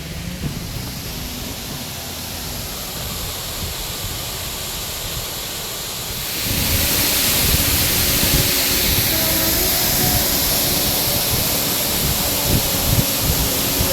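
Waterfall's rushing water, a steady roar that grows louder and brighter about six seconds in.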